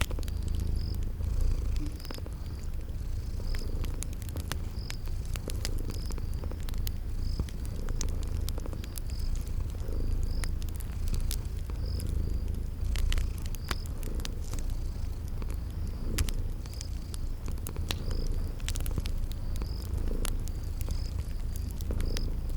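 A cat purring steadily and close up, with a wood fire crackling in scattered sharp pops over it. A cricket chirps steadily in the background, a little more than once a second.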